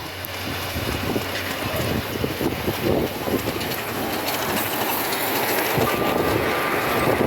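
A miniature railway train running on its track, the wheels clicking over the rail joints and growing louder as it draws near. A thin steady tone joins in about six seconds in.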